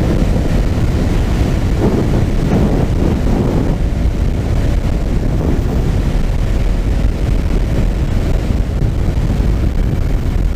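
Heavy wind rushing over the microphone while riding a 2012 Yamaha FZ6R at speed, with the bike's 600cc inline-four engine running steadily underneath; a faint steady engine tone comes through from about four seconds in.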